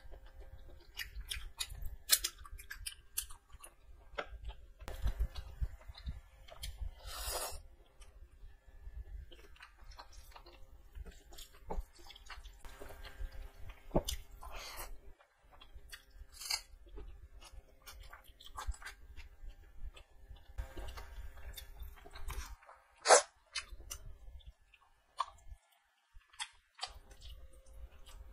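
Close-up chewing and wet mouth sounds of a person eating rice and chicken curry by hand: irregular small clicks and smacks of lips and tongue while chewing, with one sharp, louder smack late on.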